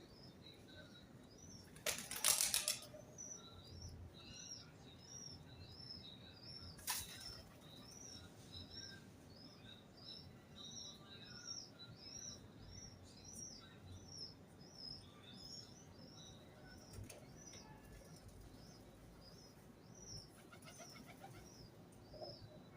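A small bird calling a short, high chirp over and over, about twice a second. About two seconds in comes a loud burst of wing flapping, with a shorter one about seven seconds in.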